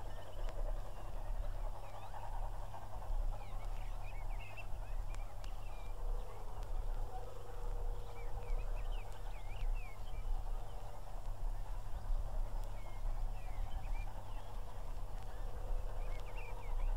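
Outdoor country ambience with birds giving short chirping calls here and there, over a steady low rumble.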